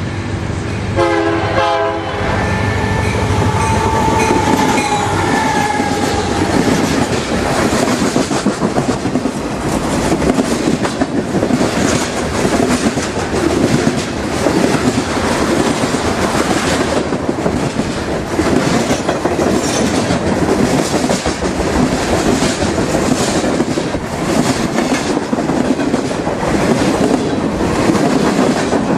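Freight train passing close by. The locomotive's horn sounds a chord for about the first two seconds, then the cars' wheels clatter steadily over the rail joints, loud and continuous.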